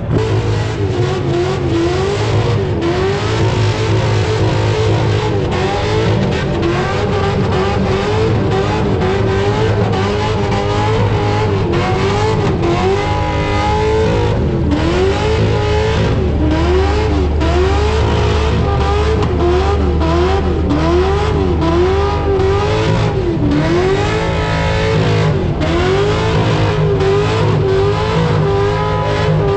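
Burnout car's engine held at high revs, the revs rising and falling over and over as it spins its tyres on the burnout pad.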